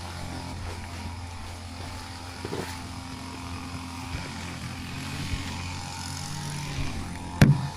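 Motorcycle engine running at a steady speed while being ridden, with a sharp knock a little before the end.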